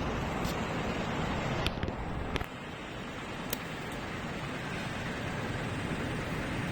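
Fire burning in a twin-walled fire pit: a steady rushing noise with a few sharp crackles or snaps.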